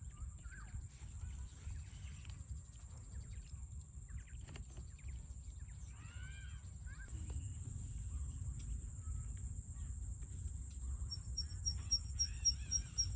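Outdoor nature ambience: a steady high-pitched insect drone with scattered bird calls, over a low rumble. Near the end a rapid run of short chirps sets in.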